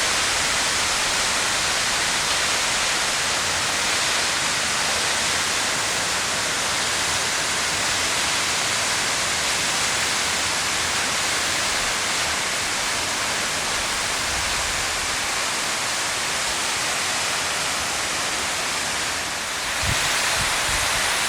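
Waterfall: a steady, even rush of falling water, with a brief dip near the end followed by a little more low rumble.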